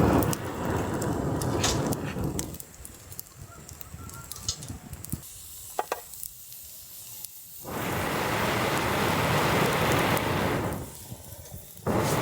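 A fire-blowing pipe blown into a smouldering campfire of birch branches: long breaths, each about three seconds and starting and stopping sharply, with pauses between in which the fire crackles faintly. The birch wood burns poorly and needs the blowing to keep going.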